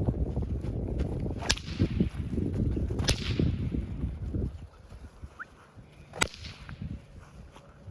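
Whip cracked three times, about a second and a half in, at three seconds, and again past six seconds, each a sharp crack with a short hissing tail, over a low rumble in the first half. The cracks are being used to accustom young bandog puppies to sudden noise.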